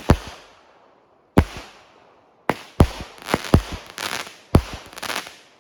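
Consumer fireworks going off: a run of about ten sharp bangs at uneven intervals, coming faster in the second half, with crackling between them.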